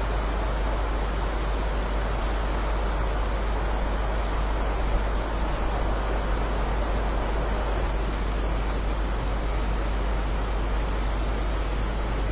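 Heavy rain falling steadily, an even rushing hiss with a constant low rumble underneath.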